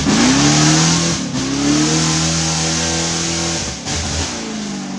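Off-road 4x4 engine revved hard. The revs climb, hold high with a brief dip about a second in, drop sharply near four seconds, then fall away.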